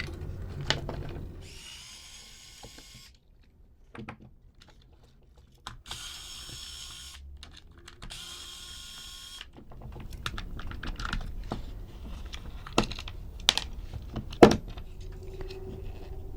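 A small power tool such as an electric screwdriver runs in three short whirring bursts, then small plastic parts click and knock as they are handled.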